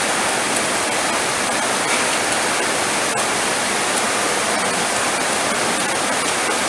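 Heavy rain falling steadily: a dense, even hiss with faint scattered ticks of single drops.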